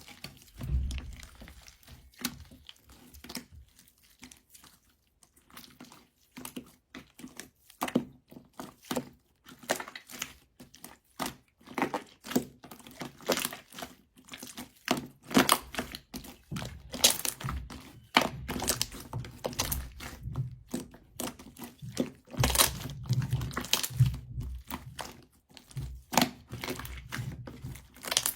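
Slime being pressed, poked and stretched by hand: an irregular run of sticky crackling pops and clicks, with occasional soft thuds, growing busier in the second half.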